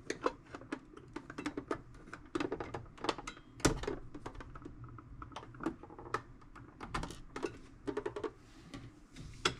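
Irregular small clicks and taps of a blade prying and picking at a stuck part of a tool box, with one louder knock a little under four seconds in.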